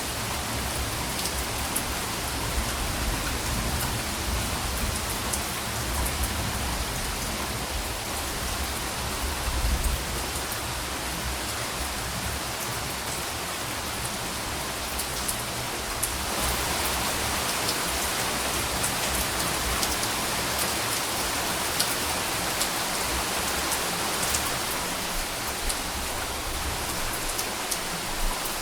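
Steady rain falling, with individual drops ticking sharply over the hiss. A low rumble of soft distant thunder swells in the first third and peaks about ten seconds in, and the rain grows a little heavier just after halfway.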